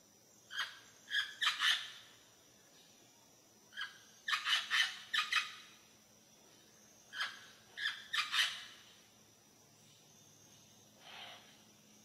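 Green parrot calling in three bursts of short, rapid squawks a few seconds apart, with one fainter call near the end.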